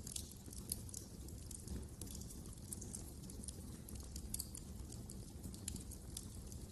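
Wood fire burning in a fireplace: irregular crackles and small pops over a soft low rumble of the flames.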